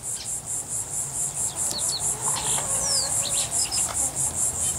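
A cricket chirping loudly and steadily near the microphone: an even train of high chirps, about seven a second. A few light taps and knocks from work at the bench sound underneath.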